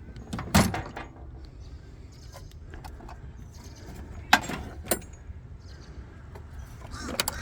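Sharp metallic clanks and knocks of someone rummaging through tools in search of a socket: a loud one about half a second in, two more around four to five seconds in, and a few quick ones near the end.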